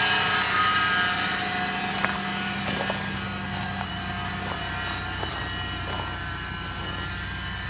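Old vehicle engine idling just after a cold start, the idle easing down over the first few seconds and then running steadily, with a few faint ticks.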